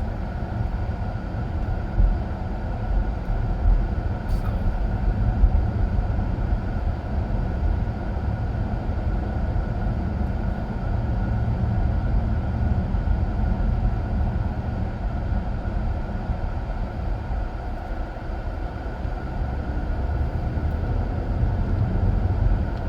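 Steady road and engine rumble inside a moving car's cabin, with a faint steady whine above it.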